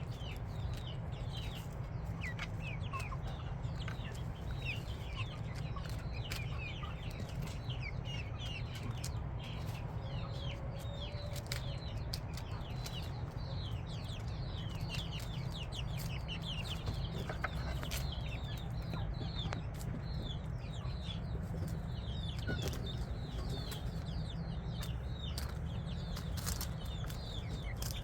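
A flock of chicks peeping: a continuous stream of short, high, falling peeps, many at once, over a steady low rumble.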